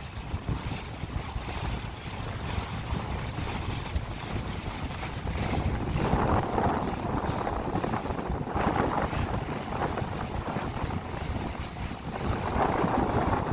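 Wind buffeting the microphone aboard a yacht, a steady low rumble with water rushing beneath it, swelling louder three times.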